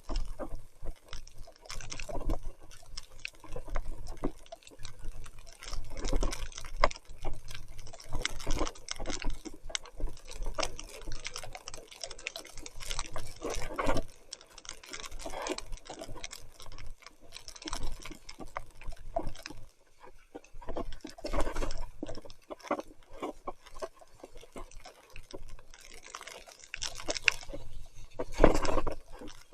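Wet splashing and squelching as a mountain bike rides through mud and puddles in heavy rain, coming in irregular bursts.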